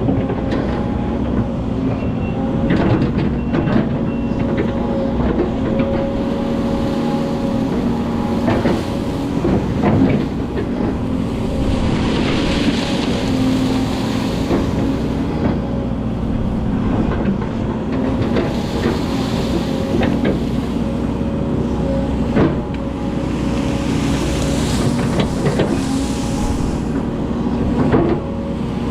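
Hydraulic excavator's diesel engine running steadily under working load, with scattered knocks and clanks and a few swells of hissing noise.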